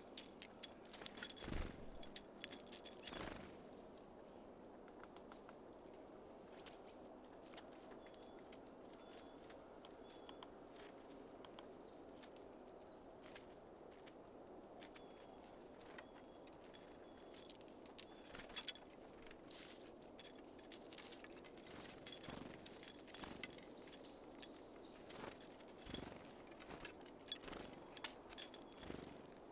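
Small birds at a feeder: scattered sharp taps and clicks, in bursts during the first few seconds and again through the second half, with faint high chirps over a steady low outdoor hum.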